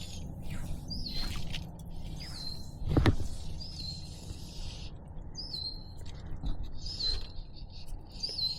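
A songbird calling repeatedly, a short high hooked note about six times, over a steady low background noise. A single sharp knock about three seconds in.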